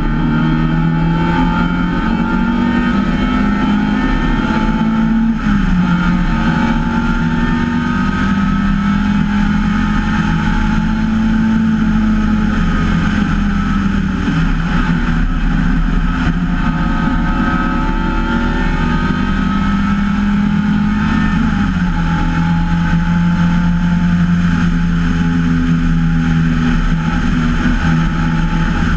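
MGA race car's four-cylinder engine running hard at racing speed, heard on board from the open cockpit. The engine note climbs and drops sharply about five seconds in, dips and recovers in the middle, and steps down again near the end.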